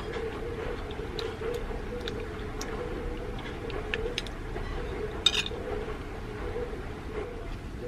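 Spoon clinking and tapping against a bowl while eating: scattered light clicks at irregular intervals, the sharpest a little over five seconds in, over a steady hum.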